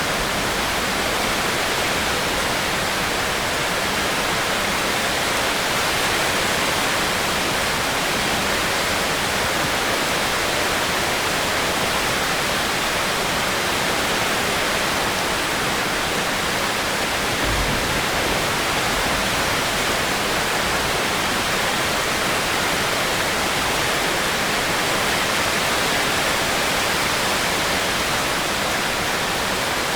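Steady heavy rain, an even, unbroken hiss with a few faint low rumbles.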